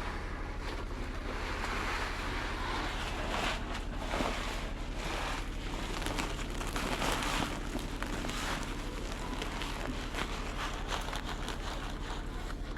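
Steady rain falling, a continuous hiss with fine pattering that swells and eases.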